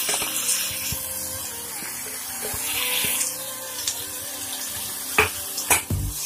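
Chopped tomatoes sizzling in hot oil in a metal pot as a spoon stirs them, with a few sharp knocks of the spoon against the pot near the end.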